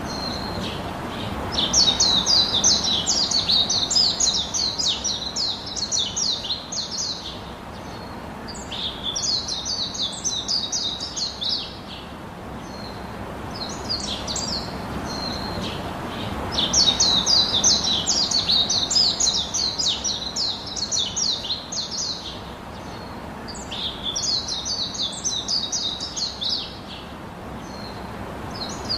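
Birds chirping in fast, high trills, coming in phrases a few seconds long about every seven or eight seconds, over a steady low hiss.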